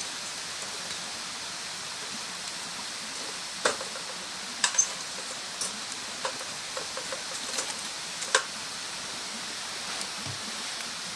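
Wood bonfire crackling: a steady hiss with several sharp pops, most of them between about four and eight and a half seconds in.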